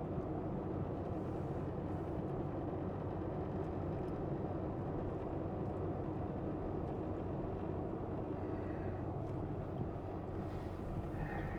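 Semi truck's diesel engine running steadily, a low even rumble heard from inside the cab. A faint high steady tone joins near the end.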